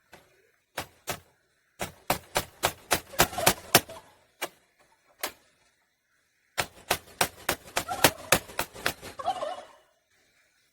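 Turkey gobbling: two rattling runs of quick pulses, the first with a few single notes before it and the second the longer.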